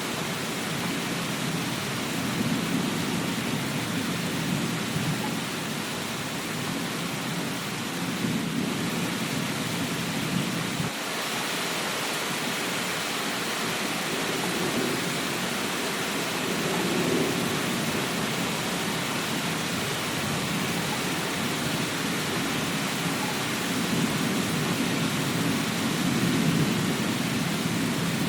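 Steady rain, with low rumbles of distant thunder swelling and fading several times.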